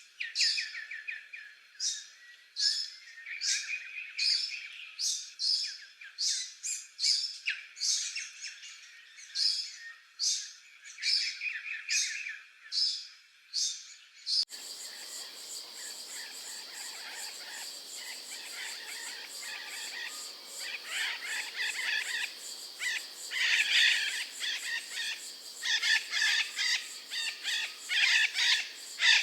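Birds chirping in quick, repeated short notes. About halfway through, the sound cuts abruptly to a different forest recording: a steady insect-like buzz with more bird calls coming in over it.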